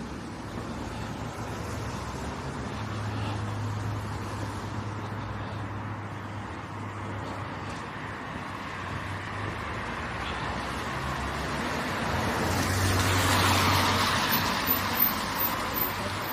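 Street traffic: a steady low hum of vehicles going by, with one vehicle passing close and growing louder before fading, loudest near the end. A few short knocks sound just after it.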